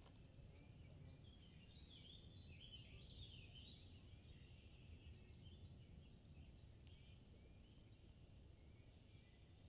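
Faint outdoor birdsong: quick, high chirping notes, busiest about two to three seconds in and again near the end, over a low steady background rumble.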